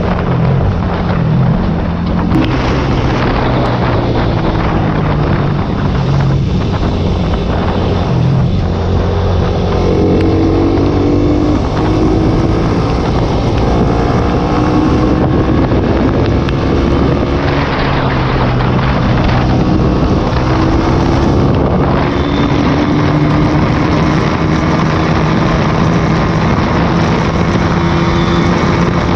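Single-cylinder sport motorcycle engine running hard under load, its pitch climbing and dropping several times as it revs and shifts gears, with wind rushing over the microphone.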